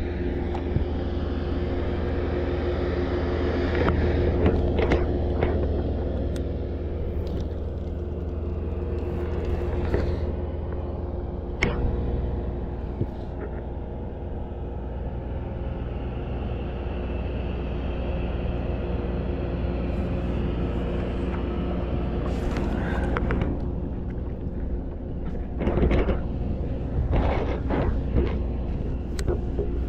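A steady low mechanical drone with a fixed hum, overlaid with scattered knocks and clatters that cluster near the end.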